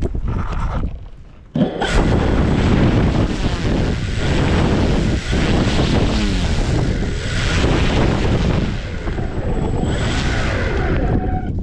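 Heavy storm wind blasting across the microphone, starting suddenly about a second and a half in and staying loud, with a faint steady high whine underneath.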